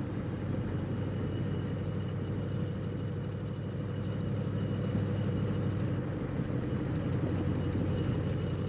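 De Tomaso Pantera Group 3 racing car's Ford V8 engine running steadily as the car drives along, a low, even exhaust note without sharp revving.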